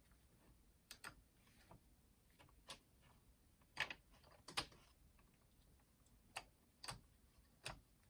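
Irregular small clicks and taps of plastic cassette-mechanism parts being handled and fitted into place, about a dozen in all, the two loudest about four seconds in.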